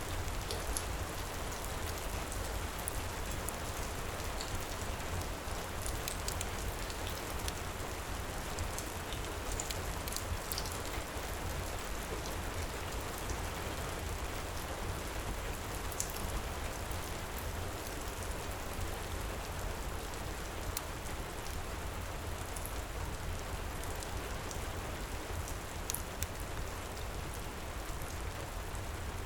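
Heavy rain pouring steadily, with a low rumble underneath and occasional sharp crackles from a wood fire in a stone fireplace.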